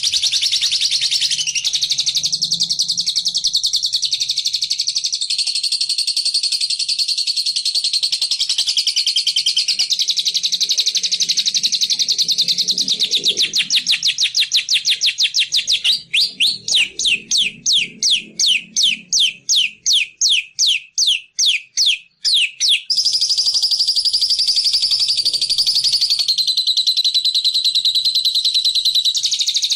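Recorded songbird lure call of the bilabu or labet bird: a continuous, very fast, high chattering trill. About halfway through it breaks into separate sharp notes, roughly three or four a second, for several seconds, then returns to the unbroken trill.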